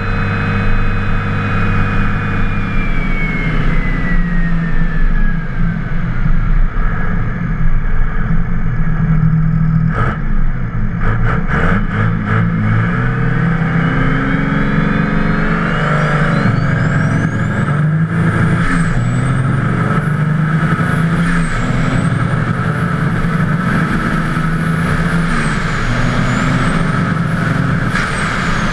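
Twin-turbocharged 24-valve Cummins 5.9 L inline-six diesel pulling a 3rd-gear rolling launch. The turbo whistle winds down at first, then sharp clicks and clunks come about ten seconds in. From about halfway the whistle climbs steeply to a very high pitch and holds as the engine pulls hard, dipping a few times before dropping away near the end.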